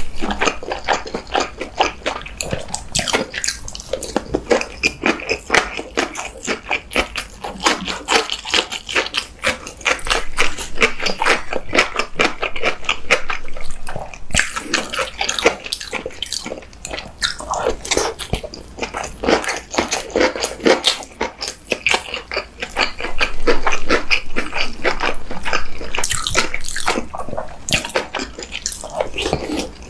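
Close-miked eating sounds of a person chewing battered fried shrimp and fried rice: rapid crunching clicks with chewing and smacking mouth sounds.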